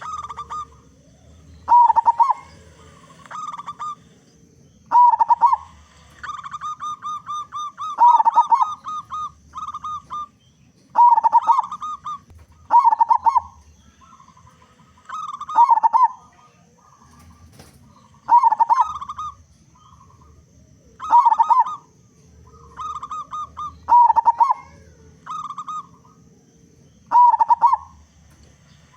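Zebra dove (perkutut) singing its cooing song: loud phrases repeated every two to three seconds, each with rapid staccato notes, and between them trains of quick short coos.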